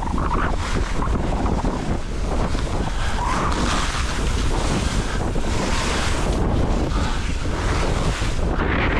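Wind rushing over the microphone while skiing downhill, with skis hissing through deep snow; the rush swells every two to three seconds as the skier turns.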